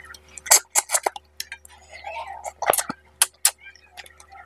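Close-miked chewing with a string of sharp, wet mouth clicks and lip smacks, several in the first second and a few more around the third second.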